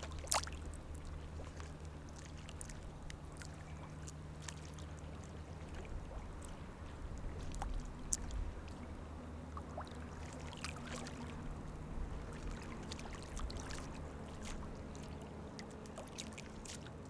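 Small waves lapping and splashing at the edge of a tidal mudflat, with many scattered little splashes and drips over a steady low hum.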